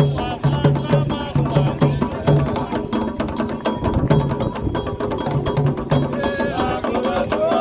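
Candomblé drumming: atabaque hand drums playing a steady, fast rhythm with sharp, dry clicking strikes on top. A voice sings over the drums near the end.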